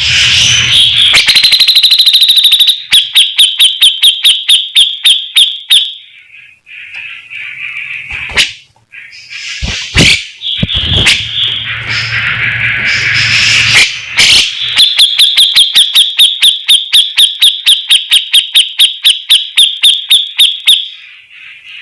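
Songbird song played as a training track: long, fast trills of repeated sharp notes, two long runs with shorter calls and sharp clicks between.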